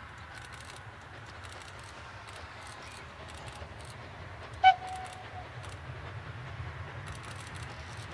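A train running with a steady low rumble that slowly grows, and just past halfway a single short, sharp toot from the locomotive's whistle, the loudest sound, trailing off briefly.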